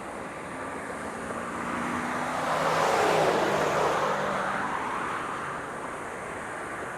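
A car passing close by: its road noise swells to a peak about three seconds in, then fades, its pitch dropping as it goes past.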